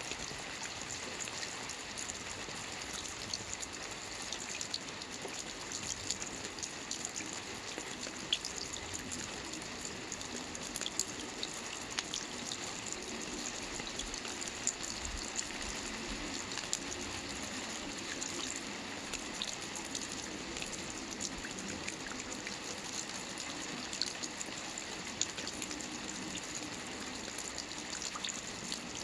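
Steady rain falling on a lake: an even hiss of rain on water, dotted with the small ticks of individual drops.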